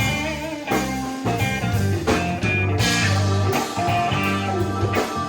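Rock band playing an instrumental passage between sung lines: guitar over bass and drums, in a blues-rock style.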